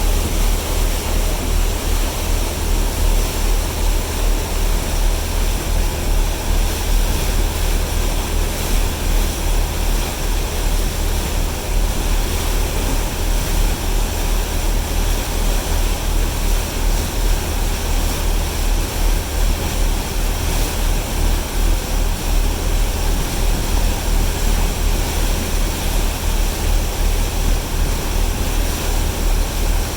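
Steady low rumble of a ferry's engines, pulsing quickly, under a continuous rush of wind and water noise.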